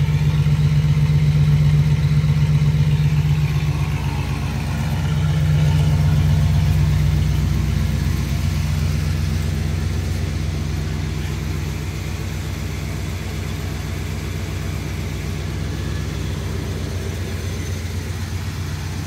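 Oldsmobile Rocket 455 V8 idling as it warms up after a cold start, a steady low engine note that swells slightly twice early on and then settles a little quieter.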